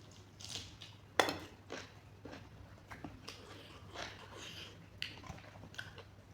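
Close-miked eating sounds: irregular wet chewing and mouth smacks of chicken curry, with a sharp click about a second in.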